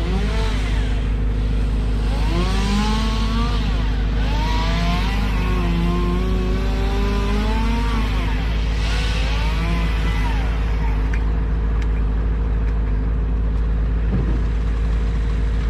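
A large engine running steadily at constant speed, with a second small engine revving up and down repeatedly over the first ten seconds, typical of a chainsaw being throttled during cutting.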